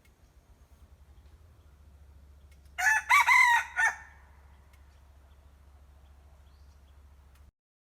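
A decoy red junglefowl rooster crowing once: a short, broken crow of about a second, about three seconds in, over a faint steady low hum.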